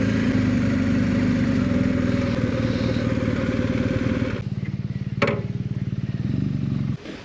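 BMW R1250 GSA's boxer twin engine running at low speed on wet grass, then dropping back to idle about four seconds in, with a single sharp clunk a moment later. The engine is switched off near the end and stops abruptly.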